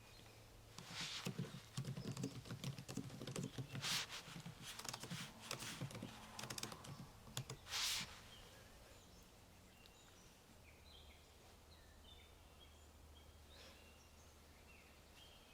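Typing on a computer keyboard, a run of rapid keystrokes with a few louder swishes among them, stopping about eight seconds in. Faint bird chirps follow.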